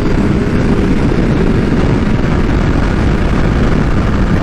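Kawasaki H2 supercharged inline-four motorcycle ridden at speed, its engine running under heavy, steady wind rush on the rider's microphone.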